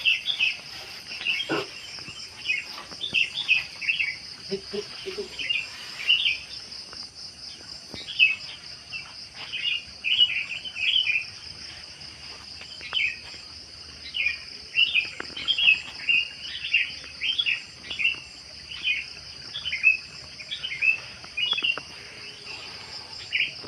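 A steady, fast-pulsing chorus of insects such as crickets, with short high chirping calls from another animal repeating every second or so over it.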